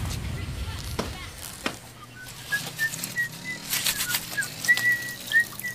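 Small birds chirping: a run of short, high chirps at varying pitch starting about two seconds in, after two sharp clicks.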